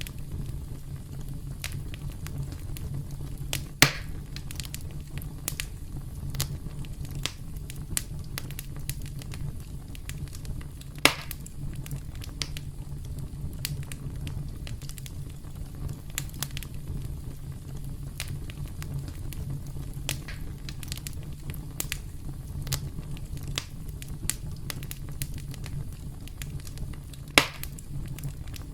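Wood fire crackling steadily: frequent small snaps and pops over a low steady rumble, with three louder pops, about 4, 11 and 27 seconds in.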